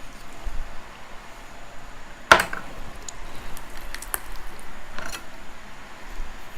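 A knife working through a raw chicken wing joint on a cutting board: a sharp knock about two seconds in, then a few light clicks and soft handling noises.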